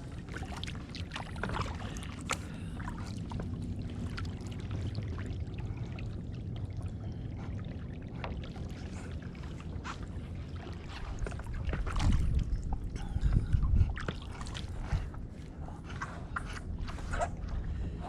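Kayak being paddled: water splashing and dripping off the paddle blades, with scattered small knocks. A louder low rumble comes about twelve seconds in.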